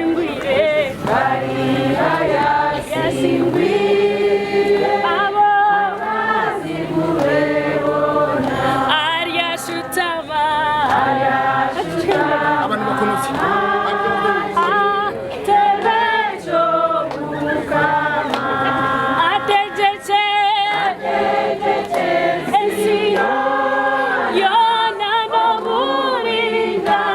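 A choir singing in harmony, several voices holding long notes together.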